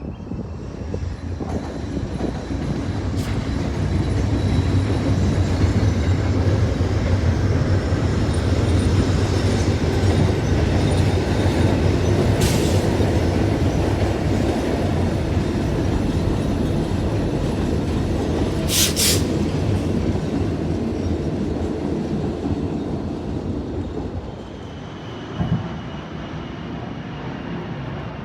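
Long, loud rumble of heavy vehicles crossing a bridge, swelling over the first few seconds and easing off about 24 seconds in, with three sharp clanks along the way.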